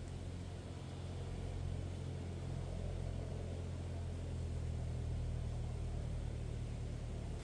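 A steady low mechanical hum, engine-like, that holds evenly and then cuts off abruptly at the end.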